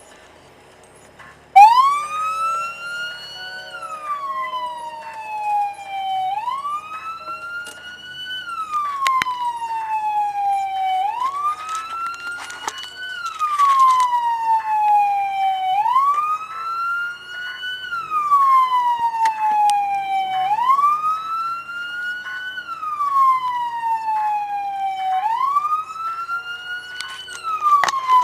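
Emergency vehicle siren wailing, its pitch climbing and then slowly falling in cycles of about five seconds. It starts abruptly about a second and a half in.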